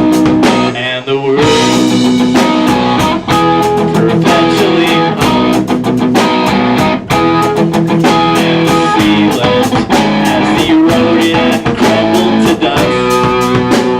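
Rock band playing live, with electric guitars over a drum kit. The music breaks briefly about a second in, then carries on.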